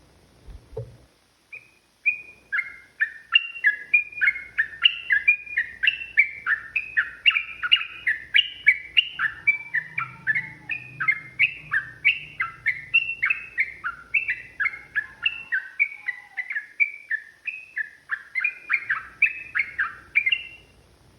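Yellow-vented bulbul (trucukan) singing a long, unbroken run of rapid, loud notes, about three to four a second, starting about two seconds in and stopping just before the end.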